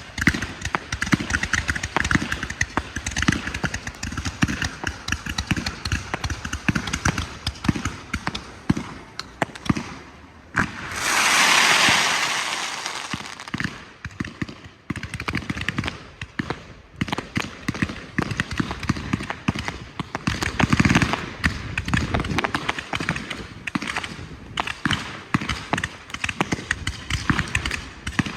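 Low-noise firework display: a continuous rapid crackle of small pops and light thuds. About eleven seconds in, a loud hissing rush rises and fades over two to three seconds.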